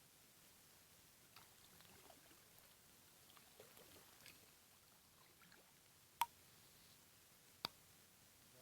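Near silence with faint scattered ticks of light raindrops starting to fall, and two sharp clicks, one about six seconds in and another a second and a half later.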